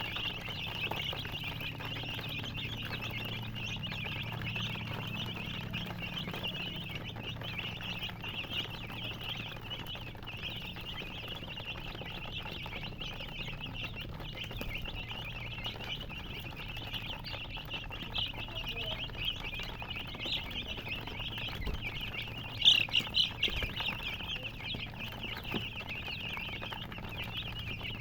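A brood of baby chicks peeping continuously, many high chirps overlapping into a steady chorus, with a short run of louder peeps near the end.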